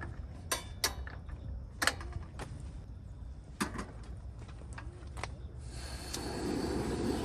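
Scattered light clinks and knocks of small hard objects being handled, then a steady rushing noise that comes up about six seconds in.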